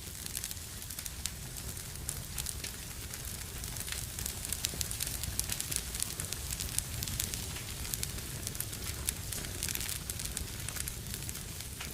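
Fireplace fire burning with a steady low rumble and many sharp crackles and pops, which come thickest in the middle.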